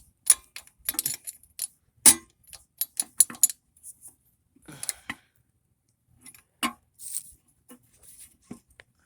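Irregular metallic clicks and clinks of a socket wrench working the oil drain bolt on a small dirt-bike engine. The sharpest clink comes about two seconds in, and the clicks grow sparser in the second half.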